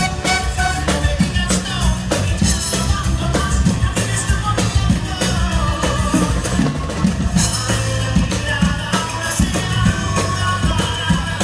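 Loud, upbeat band music with a driving drum beat, from a live theme-park band show.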